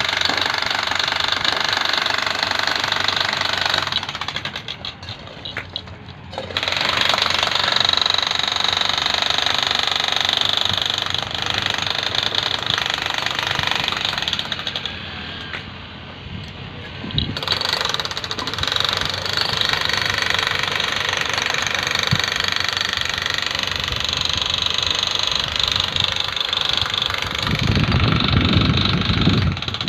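Excavator engine and hydraulics working hard with a harsh, rattling drive, easing off twice for a couple of seconds each, with a strong low rumble building near the end.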